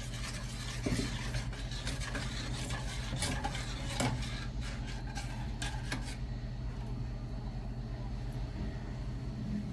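Spoon stirring and scraping in a pot of simmering sauce, with several sharp clinks of the spoon against the pot in the first six seconds, over a steady low hum; after that only the hum continues.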